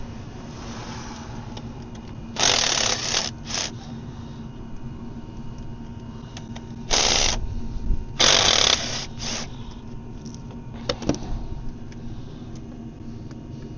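Ratchet wrench clicking in several short bursts, about five in all, as 13 mm bolts on the clutch slave cylinder are undone.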